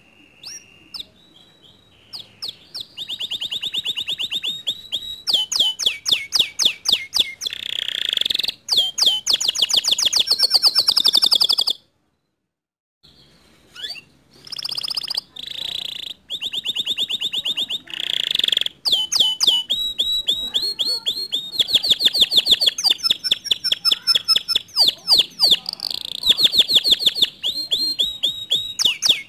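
Domestic canary singing in full song: long rapid trills of repeated notes, some rolling and some chopped, changing from phrase to phrase. There is a sudden break of total silence about twelve seconds in.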